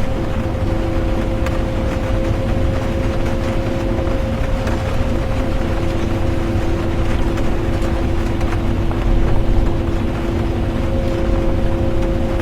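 Bus cabin interior while driving: a steady low rumble of engine and road with a constant whine, mixed with the hiss of rain. The whine's lower tone drops out for a moment about four seconds in.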